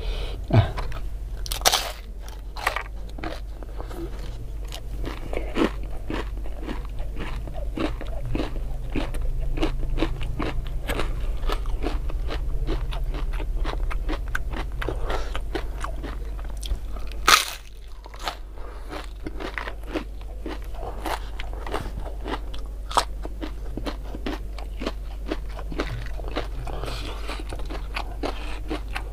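A person biting and chewing crisp fried tempeh topped with raw bird's-eye chilies: a continuous run of crunches, with a few louder sharp crunches near the start and the loudest about 17 seconds in.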